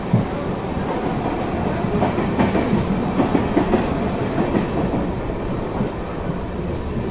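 Passenger train running at speed, heard from an open coach doorway: a steady running noise with wheels clattering over rail joints.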